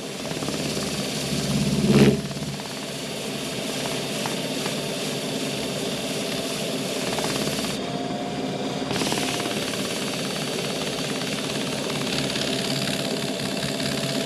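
Woodturning lathe motor running steadily while wax finishing paste is buffed onto the spinning piece, with a brief louder burst about two seconds in.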